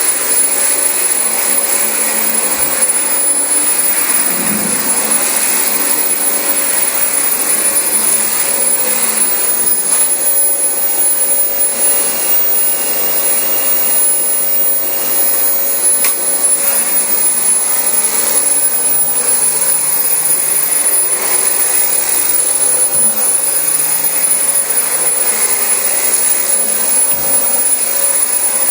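Dyson DC25 bagless upright vacuum cleaner running steadily over carpet: a constant rush of air with a steady motor hum and a thin high whine.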